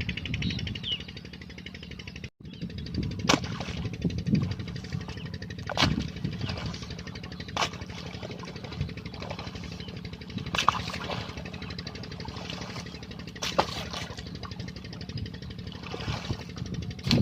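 Petter diesel engine running steadily to drive a tubewell pump, a low hum with a fast even pulsing. A few sharp knocks sound over it at irregular times.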